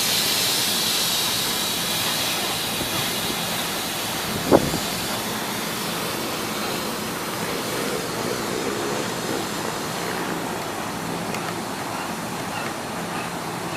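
Commuter train at a station platform: steady running noise with an air hiss that fades over the first few seconds, and one brief sharp sound about four and a half seconds in.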